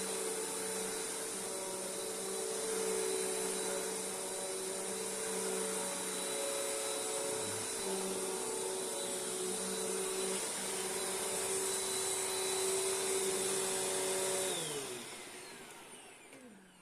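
Royal Pro Series Multi Floor upright vacuum cleaner running steadily, then switched off near the end, its motor winding down with a falling pitch.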